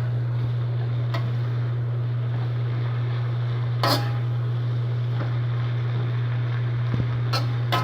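A cooking utensil clinking against a frying pan a few times while kale is stirred, loudest about four seconds in, over a steady low hum.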